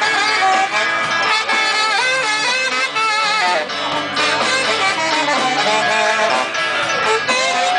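A live band playing a song, with guitar to the fore and notes that slide and bend in pitch.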